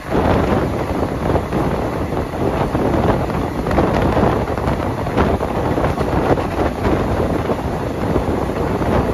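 Moving passenger train heard from on board: a steady rumble of the wheels on the track, with wind rushing across the microphone and faint irregular clicks.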